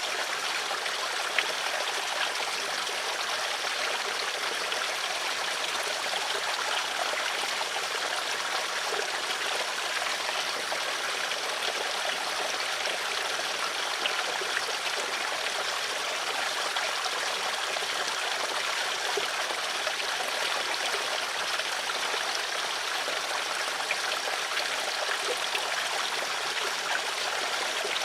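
Stream water flowing and trickling steadily, an even rushing with small splashes and gurgles scattered through it.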